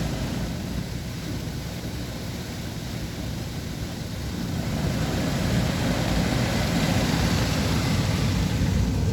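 Mark VII ChoiceWash XT rollover car wash machine working over the car: a steady rushing noise, louder about halfway through.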